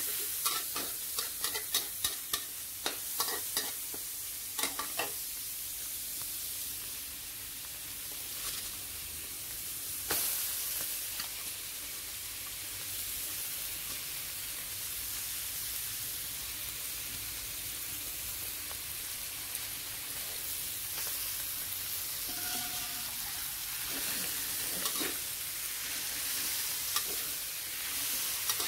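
Stir-frying in a metal wok: a metal spatula scrapes and clicks against the pan in quick strokes for the first few seconds over a steady sizzle of frying minced pork. The sizzle runs on, with a few more spatula knocks near the end as cabbage and glass noodles are stirred in.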